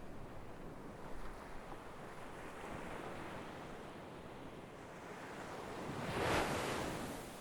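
Sea waves washing onto a shore: a steady surf hiss, with one wave breaking and rushing up about six seconds in before it fades.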